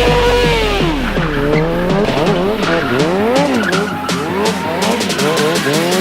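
Motorcycle engine held at high revs, dropping about a second in, then revved up and down rapidly and repeatedly, with tyre skidding.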